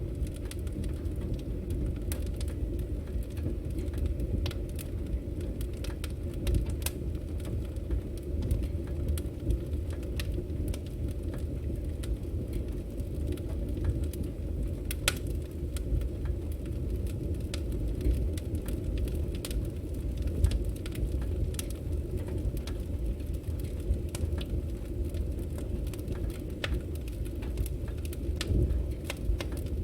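Burning firewood crackling: a steady low rumble of the flames with frequent sharp, irregular pops and snaps from the wood.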